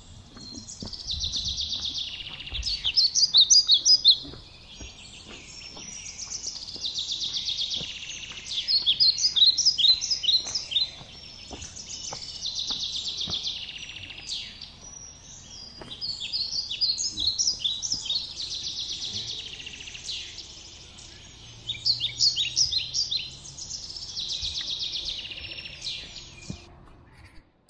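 A songbird singing the same phrase of quick high notes over and over, each phrase about three seconds long and growing louder toward its end, repeated roughly every five seconds.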